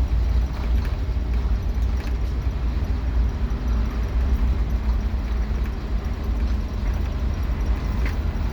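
Scania K230UB Omnilink single-decker bus under way, heard from inside the cabin: a steady, deep engine and road rumble with light rattles and clicks from loose interior fittings.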